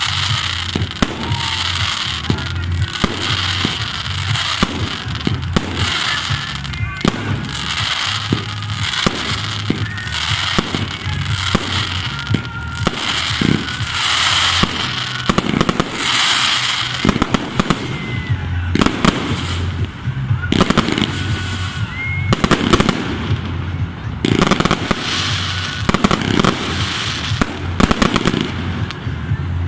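Fireworks display: a steady run of sharp bangs, some in quick clusters, over continuous crackling.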